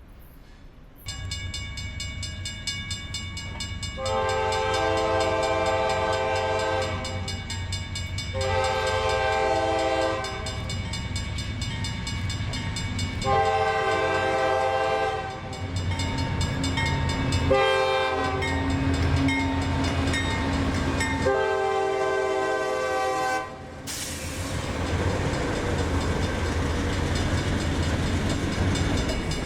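CSX diesel locomotive horn sounding a series of blasts over the engine's steady rumble: long, long, long, a short one, then a final long blast, the pattern of a grade-crossing signal. The horn plays several notes at once as a chord.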